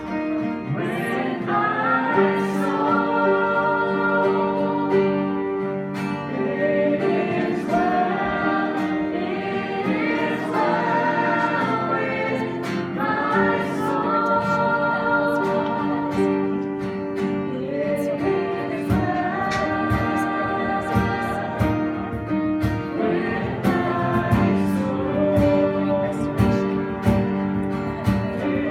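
Live worship music: several voices singing a song together over instrumental backing, with a steady drum beat coming in more strongly past the midpoint.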